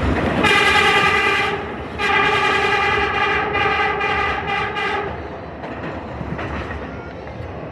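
Subway train horn sounded: a short blast, then a longer blast of about three seconds that ends in a few quick toots, over the steady rumble and rail clatter of the R33 Redbird train running at speed.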